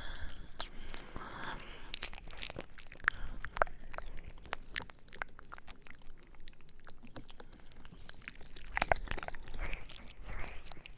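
ASMR mouth sounds close to the microphone: quick, irregular wet clicks and smacks of lips and tongue, with a few louder pops about three seconds in and again near nine seconds.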